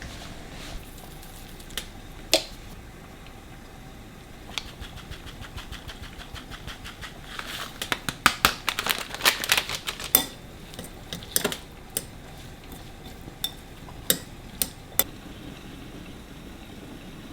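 Kitchen work sounds. A run of rapid clicking ticks builds for a few seconds in the middle, with scattered sharp knocks and taps of utensils and containers before and after.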